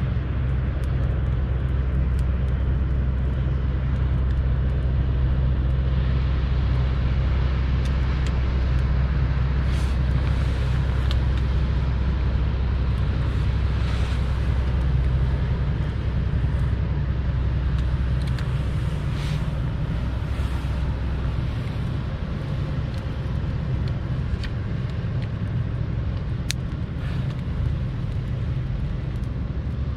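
Wood campfire of gathered branches and driftwood burning, with a few scattered crackles and pops, one sharp pop near the end, over a steady low rumble.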